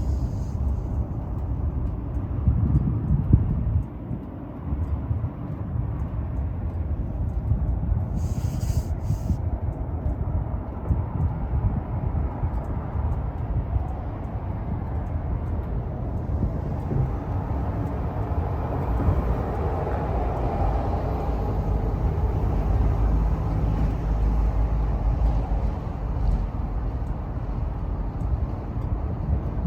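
Harley-Davidson Heritage Classic's Milwaukee-Eight V-twin running through a Rinehart exhaust while riding, with a steady low exhaust note and wind rush. The engine eases off briefly about four seconds in, then pulls on steadily.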